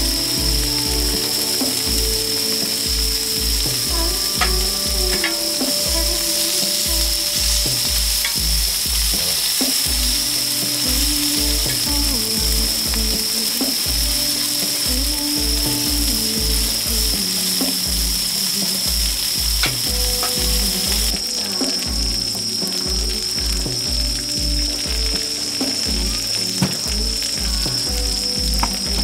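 Food sizzling on a hot griddle pan over a gas burner, under background music with a steady beat; the sizzle thins out about two-thirds of the way through.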